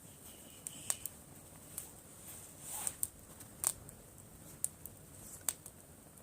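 Driftwood campfire burning, crackling with sharp irregular pops, the loudest about three and a half seconds in.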